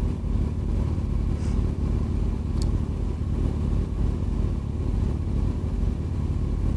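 Kawasaki Z800 inline-four motorcycle engine running at a steady pitch through an aftermarket Ixil exhaust with its dB killer removed, giving a loud, deep rumble.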